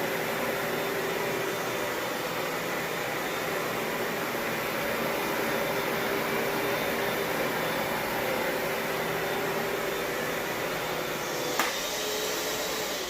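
Hoover Dual Power Max Pet upright carpet cleaner running steadily, its suction motor making a constant whooshing drone with a steady hum, as it scrubs and extracts dried stains. A single sharp click comes near the end.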